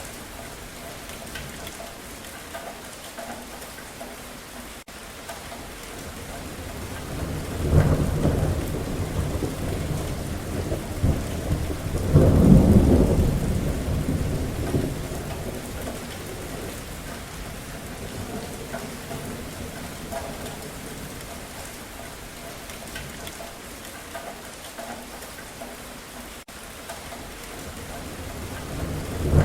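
Steady rain falling with thunder rolling through it: a rumble swells about seven seconds in, a louder, longer roll peaks about twelve seconds in and fades over several seconds, and another begins building near the end.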